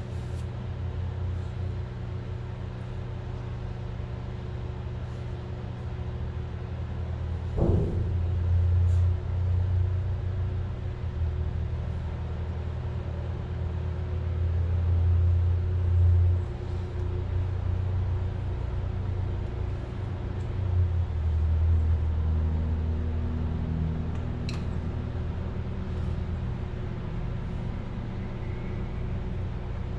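A steady low mechanical hum with a rumble that swells and fades, and a single sharp knock about eight seconds in, with a few faint clicks.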